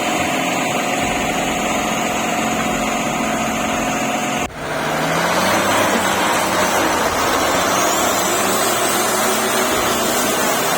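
Heavy lorry engine running steadily; the sound breaks off suddenly about four and a half seconds in and picks up again slightly louder.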